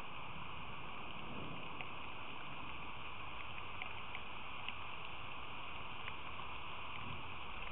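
Steady rain falling, an even hiss, with a few faint ticks through it.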